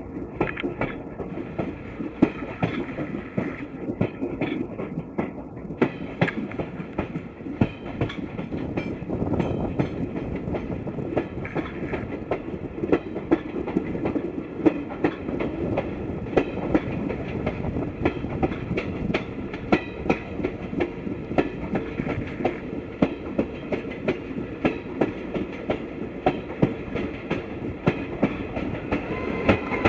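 Passenger train coaches running along the track: a steady rumble with the rapid, uneven clickety-clack of wheels passing over rail joints.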